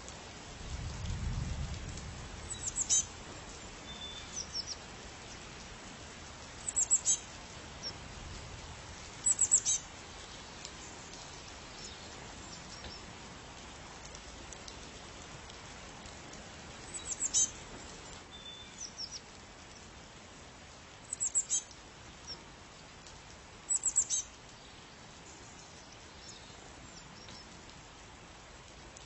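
A small songbird's high, short chirping calls, a few quick notes at a time, repeated every few seconds over a steady background hiss. A brief low rumble comes near the start.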